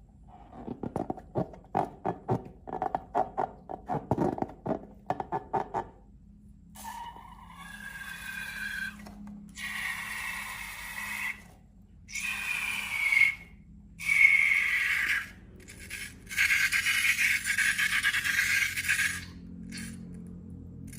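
Slime and balloon handling sounds. A run of quick sticky clicks and pops lasts about five seconds, then come several stretches of hissing with a high squeal running through them, each a few seconds long with short breaks between.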